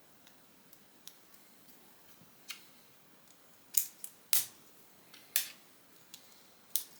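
Lego plastic bricks clicking as they are handled and pressed together: a string of short, sharp clicks, sparse at first and coming more thickly and loudly about four to five seconds in.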